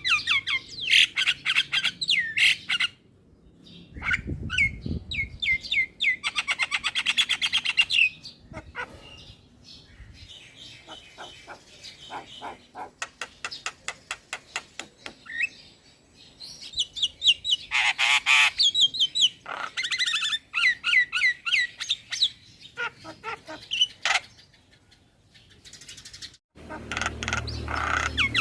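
Young male Javan myna singing a busy, varied song of chirps, squawks and rapid rattling clicks, in phrases broken by short pauses.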